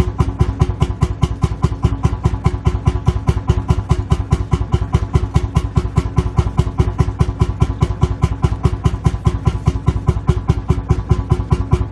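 Lanz Bulldog tractor's single-cylinder two-stroke hot-bulb engine idling: a steady, even train of heavy exhaust thumps, one beat after another at a constant pace.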